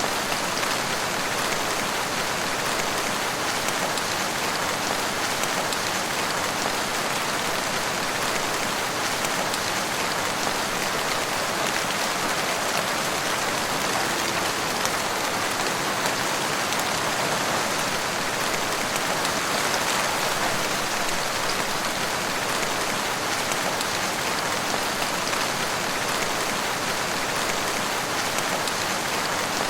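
Steady rain falling in a forest, an even hiss of drops pattering on leaves and the ground, with no thunder.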